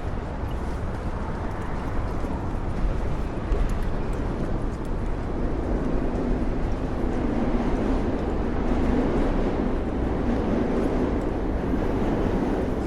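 Steady city street traffic: a low rumble of passing vehicles that grows louder in the second half.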